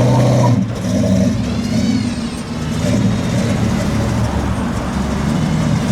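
Car engines running at low revs as cars drive off, with one car passing close about two seconds in.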